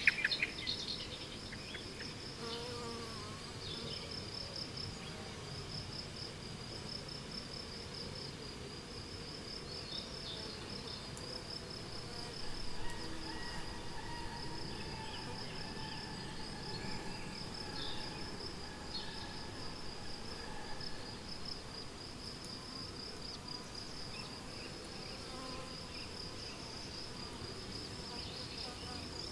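A cricket chirping continuously, a high, rapidly pulsing trill at a steady pitch, with faint bird calls behind it.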